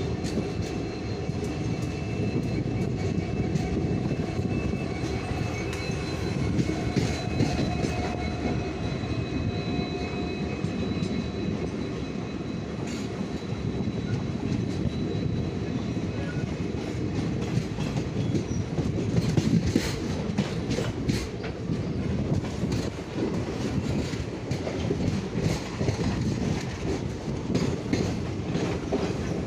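A train running past on the rails: a steady rumble of wheels with clickety-clack over the rail joints and a faint high wheel squeal in the first half. The clatter is loudest about two-thirds of the way through.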